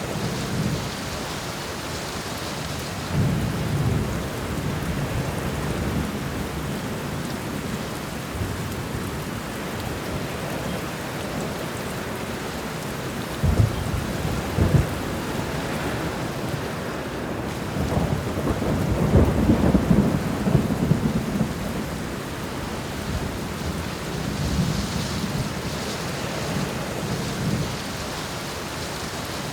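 Steady rain with thunder: low rolling rumbles a few seconds in and again about two-thirds of the way through, with two sharp cracks in between.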